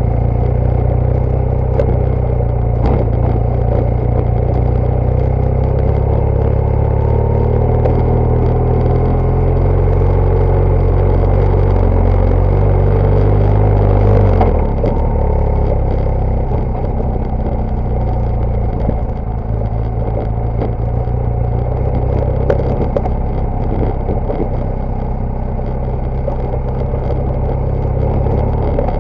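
BMW GS Adventure motorcycle's boxer-twin engine running under load. The revs build slowly for about fourteen seconds, drop suddenly as the throttle closes, then pull on at lower revs, with a few short knocks and rattles.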